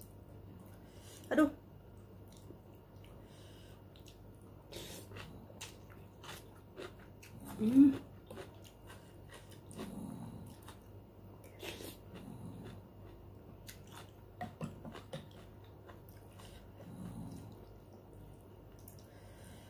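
Close-miked chewing of soto with bean sprouts and noodles, with scattered light clicks of a metal spoon in a ceramic bowl. A short low sound, louder than the rest, comes about eight seconds in.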